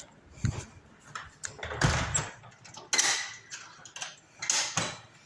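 Household handling noises: about five short scuffs and light clatters, spaced irregularly, as objects are moved about.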